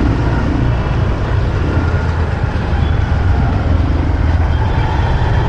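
Steady low rumble of a motorbike riding through city traffic, its engine and road noise running without a break.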